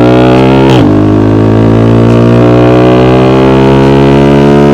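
Yamaha R15 V4's single-cylinder engine, breathing through an SC Project aftermarket exhaust, under acceleration: the exhaust note climbs steadily in pitch, drops sharply at an upshift about a second in, then climbs again through the next gear.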